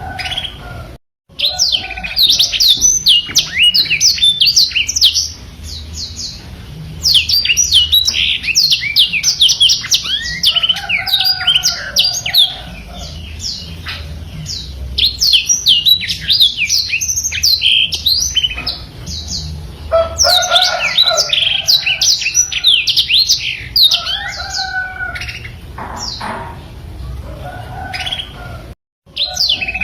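Blackthroat (black-throated canary) singing a long, rapid twittering song of quick high notes mixed with lower warbles, in bursts of several seconds separated by short pauses. The sound cuts out briefly about a second in and again near the end.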